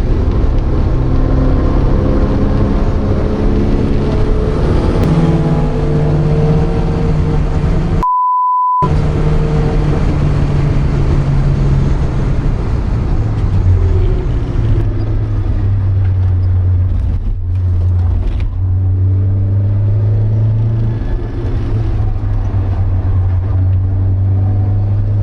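Porsche 924 2.0's four-cylinder engine running hard on track, heard from inside the cabin, its pitch shifting and settling lower about halfway through. A brief steady beep about eight seconds in briefly replaces the engine sound.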